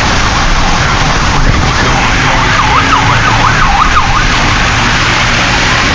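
An emergency vehicle siren on a fast yelp, its pitch swinging up and down several times in quick succession for about two seconds, from about a second and a half in. Under it is steady road and tyre noise from inside a moving car.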